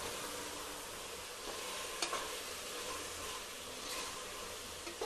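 A thick onion, tomato and spice-powder masala sizzling in oil in a pot while a slotted steel spoon stirs it. The spoon scrapes against the pot, sharper about two seconds in and again near four seconds.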